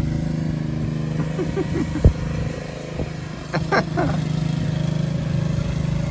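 An engine running steadily at idle, with a sharp knock about two seconds in and a few short high chirps about three and a half seconds in.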